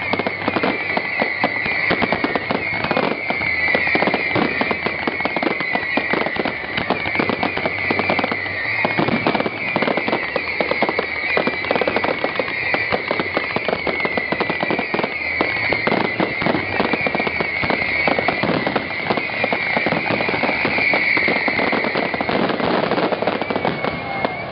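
Aerial fireworks display in a rapid, continuous barrage of bangs and crackles, with a high wavering whistle running through it.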